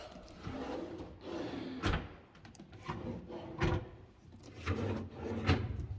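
Cabinet drawers being worked open and shut, with handling noise and three sharp knocks as they close.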